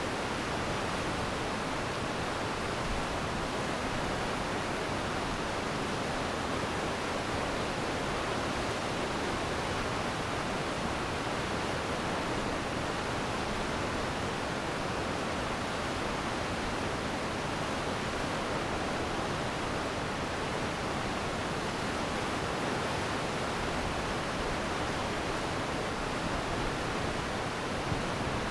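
Glacial meltwater stream rushing steadily in a continuous, even wash of water noise.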